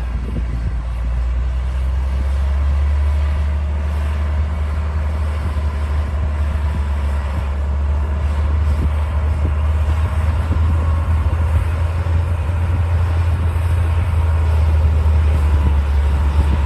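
D60 crawler bulldozer's diesel engine running steadily under work with a deep, constant drone.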